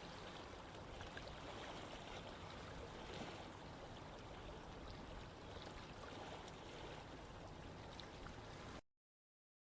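Running water, a steady rush with small trickling splashes, that cuts off abruptly about nine seconds in.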